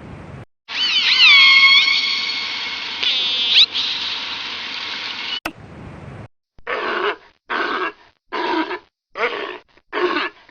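Animal sounds. First comes a long, loud, noisy call with falling whistle-like tones, which cuts off suddenly. A few seconds in, it is followed by a run of short, evenly repeated calls, about one every 0.8 seconds.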